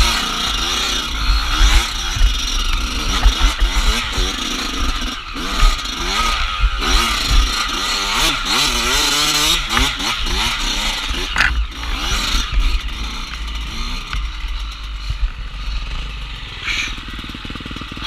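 Dirt bike engine revving up and down repeatedly as it is ridden along a trail, over a constant low rumble. It eases off and runs quieter near the end.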